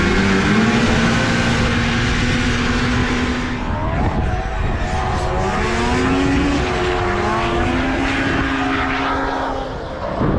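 Several racing snowmobile engines running hard on an ice track, their pitches rising and holding as the sleds accelerate, with more than one engine heard at once.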